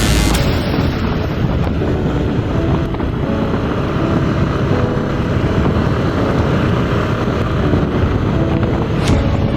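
Wind rushing over the microphone of a motorcycle riding at highway speed, a steady loud rumble and hiss.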